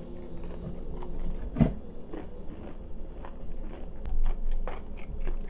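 Close-up mouth sounds of biting into and chewing fried chicken, with scattered crunches and mouth clicks, the loudest crunch about one and a half seconds in.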